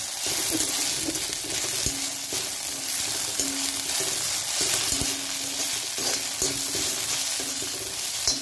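Sliced okra sizzling as it stir-fries in a kadai, stirred and scraped with a perforated metal spatula, with a few sharp knocks of the spatula against the pan.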